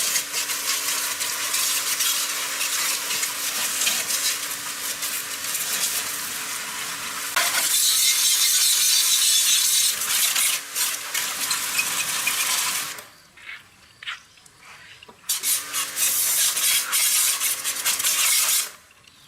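High-pressure spray hissing steadily over a low motor hum, stopping about 13 seconds in and starting again about two and a half seconds later, then cutting off near the end.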